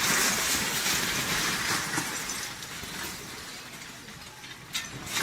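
Earthquake shaking: a loud rumbling and rattling noise that fades over a few seconds, with glass shattering and a sharp crash near the end.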